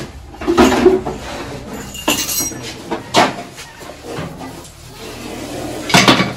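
A few metallic clinks and knocks from a kitchen gas cylinder and its fittings being handled: a ringing clink about two seconds in and sharp knocks, with short rushes of noise around the first second and near the end.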